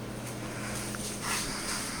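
A King of Fans Heisman ceiling fan running, its motor giving a steady low hum under a faint airy noise. A soft louder swish comes about a second and a half in.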